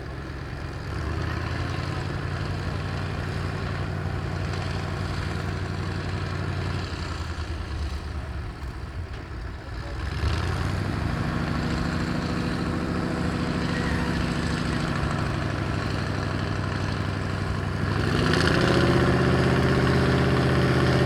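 Straight-piped Mercedes-Benz V8 engine of an ACO articulated tractor running steadily under plough work. It grows louder about halfway through, and near the end it picks up revs and is at its loudest.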